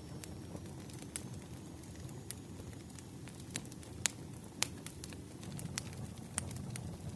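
Burning firewood crackling: a steady low rumble of the fire with sharp, irregular pops and snaps, the loudest about four seconds in.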